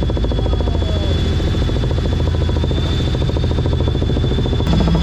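Helicopter in flight: a steady, rapid beat of the rotor blades with a thin, steady high whine over it. Just before the end the sound changes abruptly and gets slightly louder.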